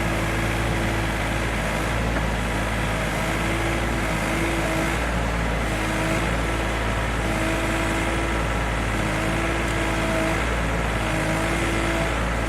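An engine running steadily under a constant low rumble, with a hum that fades in and out every second or so.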